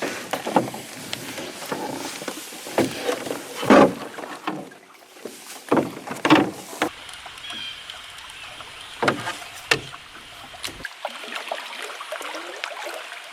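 Canoe paddle strokes dipping and pulling through lake water, an irregular series of splashing swishes.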